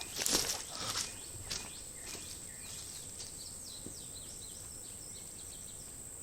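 Small birds chirping in woodland, short repeated calls over a steady high-pitched buzz, with a few light clicks and rustles in the first second or so.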